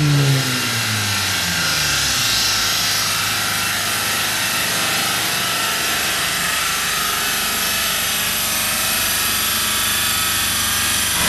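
A turbocharged 2.0T FSI four-cylinder engine's revs falling away in the first second or so as a full-throttle dyno pull ends. A steady loud rushing noise then fills the rest.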